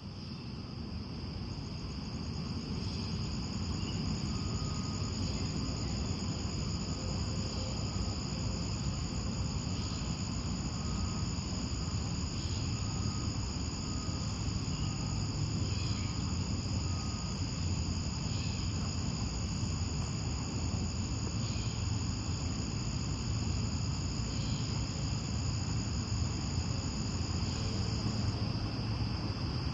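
Outdoor nature ambiance dominated by a steady chorus of trilling insects such as crickets, a continuous high drone, over a low rumble. Faint short repeated notes sound in the first half, and one of the high insect tones drops out near the end.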